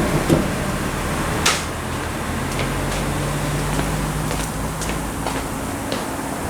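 Hand tools working on a kei truck's wheel and brake: one sharp metal clack about a second and a half in, then lighter clicks and knocks, with a steady low hum for a few seconds in the middle.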